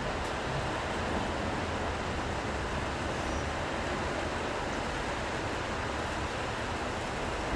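Steady city street ambience in the rain: an even wash of rain hiss and the low rumble of passing road traffic, with no distinct events.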